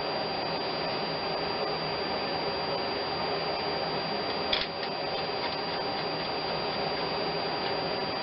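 Steady, even hiss of machine-like background noise with a thin high tone held through it, and one light click about four and a half seconds in.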